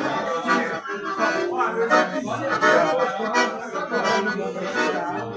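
Accordion playing a lively forró melody over a steady beat, an instrumental passage with no singing.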